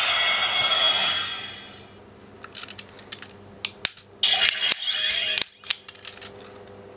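Electronic music from a toy shift car's built-in speaker plays and fades out in the first two seconds. Then come a scattering of sharp plastic clicks and rattles as the toy is handled and its switch and buttons are worked.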